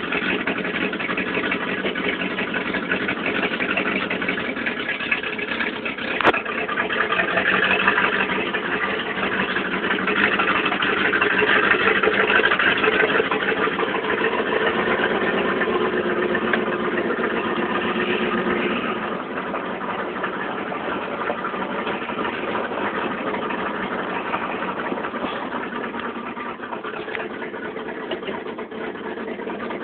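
Engine of a 1986 GMC High Sierra pickup running steadily at low speed while the truck, which has a failing transmission, is driven slowly. It grows louder for a few seconds in the middle and eases off later. A single sharp click comes about six seconds in.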